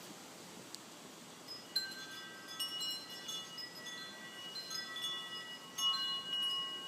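Wind chimes ringing: a scatter of clear high notes at different pitches that begin about two seconds in, struck irregularly, each ringing on and overlapping the next.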